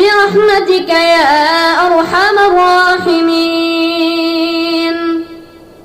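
Wordless vocal singing: one voice holds a long note and ornaments it with winding melismatic runs, in the style of a devotional vocal backing, then fades out near the end.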